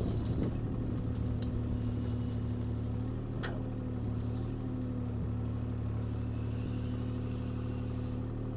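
Diesel engine of a CAT 303C CR mini excavator running steadily at constant speed, with a faint click about three and a half seconds in.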